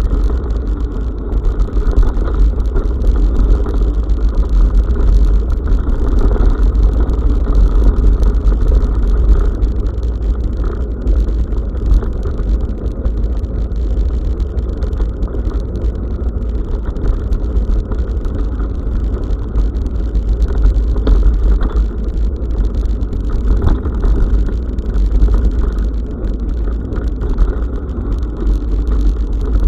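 Riding noise of a bicycle on a forest road picked up by a bike-mounted action camera: a steady heavy rumble from tyres and wind on the microphone, with scattered small rattles and clicks.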